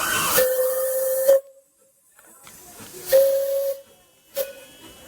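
Steam locomotive whistle blowing a single steady note over steam hiss, which cuts off sharply about a second and a half in. A second, shorter blast follows around three seconds in, then a brief toot near the end.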